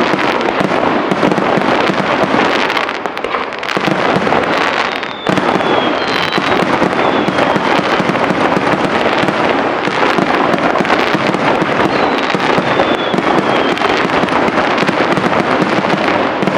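Aerial fireworks display: a dense, continuous barrage of shell bursts and crackling, with faint falling whistles twice.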